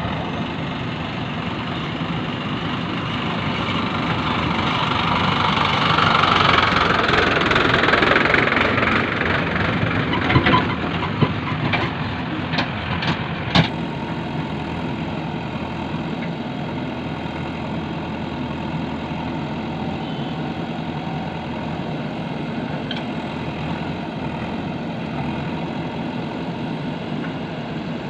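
Heavy diesel engine running. It revs up over the first several seconds, then settles back to a steady idle. A few sharp knocks come about halfway through.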